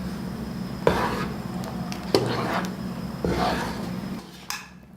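A utensil stirring a thick cheese-and-milk sauce in a pan, scraping and knocking against the pan three times, about a second apart. Under the stirring runs a steady low hum that stops shortly before the end.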